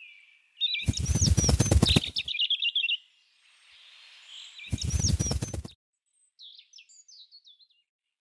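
Small bird's wings flapping in two quick bursts, about a second in and again near five seconds, with high chirps over the wingbeats; a short run of chirps alone follows near the end.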